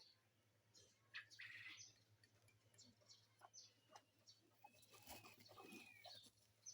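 Faint bird chirps and short calls, several overlapping and scattered irregularly, with a few longer gliding calls about five seconds in.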